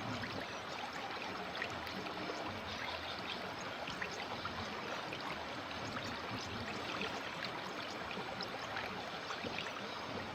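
River water flowing steadily, an even rush with many small splashes and trickles through it.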